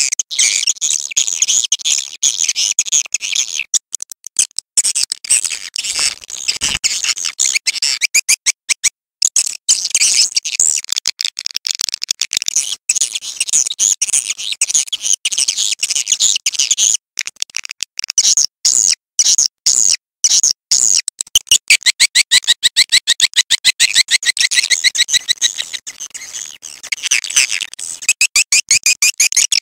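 Swiftlet call recording of the kind played to lure swiftlets to a nesting house: dense, high, rapid chirping and clicking twitter in quick trains with brief breaks. In the second half, a stretch of very evenly spaced chirps repeats several times a second.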